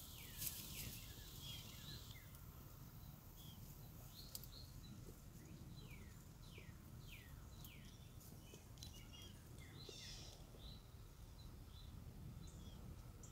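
Faint background birdsong: scattered chirps, and about halfway through a run of quick down-slurred whistles, roughly two a second, over a low steady rumble of outdoor ambient noise.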